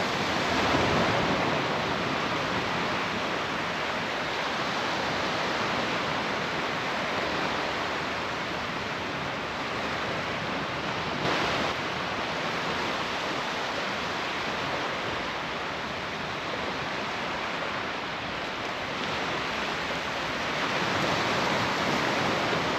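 Steady wash of surf breaking on a sand beach, swelling and easing slowly, with one brief louder noise about halfway through.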